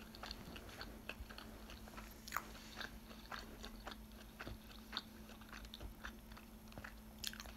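Close-miked chewing of a mouthful of burrito: faint, irregular wet mouth clicks, several a second, over a steady low hum.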